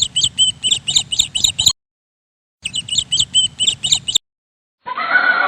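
A small songbird's rapid, high chirps, a run of about ten short calls, heard twice with a second of silence between. A horse's whinny begins near the end.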